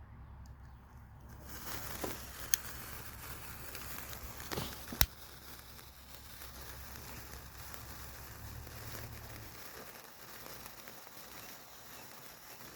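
A sparkler being lit, giving a faint, steady crackling hiss that starts about a second and a half in. Two sharp clicks come through it, one at about two and a half seconds and one at about five seconds.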